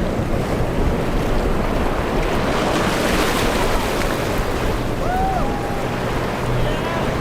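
Rough surf breaking and strong wind buffeting the microphone in a steady rush. A few faint short rising-and-falling calls come through about five seconds in.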